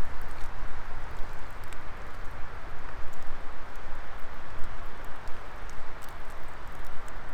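Wood fire burning: a steady rush of flame with scattered sharp crackles and pops.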